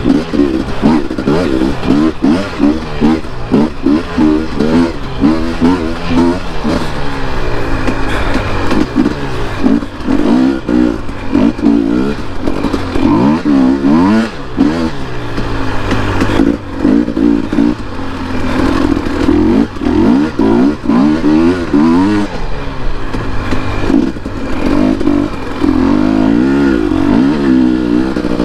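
Dirt bike engine under way, its pitch rising and falling again and again as the rider opens the throttle, shifts and backs off.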